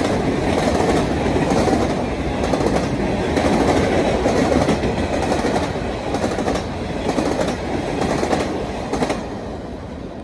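Freight train cars rolling past at close range, steel wheels clicking rhythmically over rail joints under a steady rumble. The sound falls away near the end as the last car passes.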